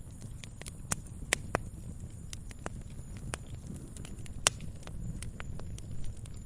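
Wood fire burning in a fireplace: a low steady rumble of flames with irregular crackles and sharp pops, the loudest pop about four and a half seconds in.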